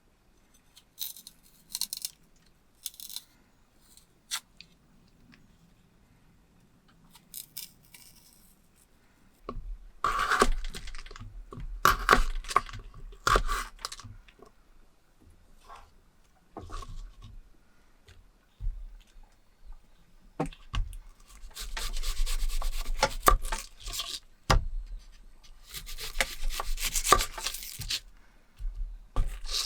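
Close-up handling noises: scattered light clicks and knocks, with stretches of rustling, tearing or scraping about a third of the way in and again near the end.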